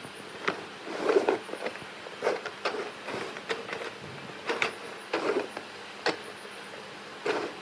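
Irregular knocks and clacks of wood on wood, about a dozen in several seconds with uneven gaps, from boards being handled or tapped while working.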